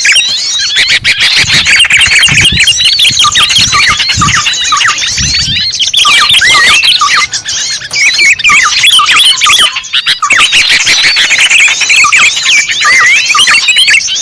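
A dense chorus of many small birds chirping and twittering at once, in fast overlapping swooping notes. It is a bird-lure ('pikat') recording of small birds.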